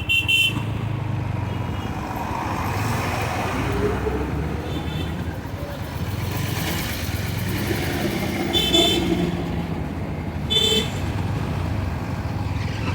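Motorcycle ride in road traffic: a steady engine and road hum, with short horn beeps at the start, about eight and a half seconds in and again near eleven seconds.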